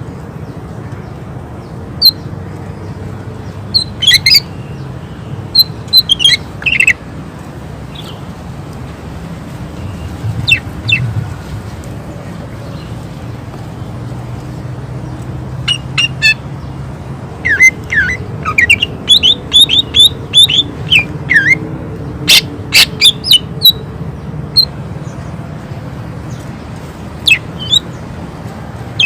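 Cucak ijo (green leafbird) singing in loud, sharp, high calls that come in scattered bursts. About halfway through it breaks into a fast run of rapid repeated notes, the 'tembakan' shots of a bird in full song. A steady low hum runs underneath.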